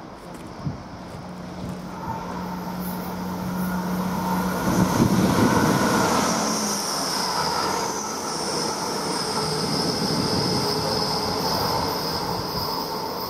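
Grand Central Class 180 diesel multiple unit passing close by: diesel engines running and wheels rumbling on the rails, getting louder to a peak about five seconds in. A high steady whine from the wheels or brakes carries through the middle and later part.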